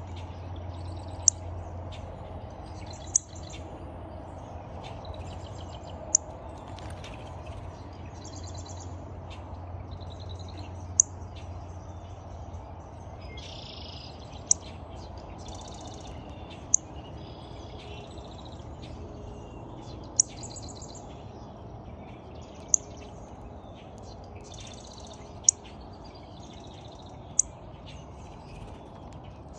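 Wild songbirds chirping and calling, with short high and buzzy calls throughout. Sharp loud clicks come about every two to four seconds, over a steady low hum.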